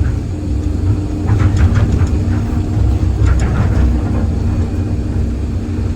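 Excavator's diesel engine running with a steady low rumble and hum. Two bursts of clatter come over it, about a second and a half and three and a half seconds in.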